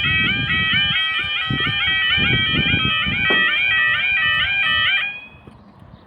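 Level crossing audible warning alarm sounding a rapid, repeating warbling tone. It stops abruptly about five seconds in.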